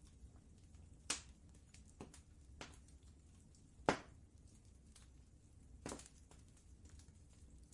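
Wood fire crackling: a few scattered sharp pops and snaps, the loudest about four seconds in, over a low steady rumble.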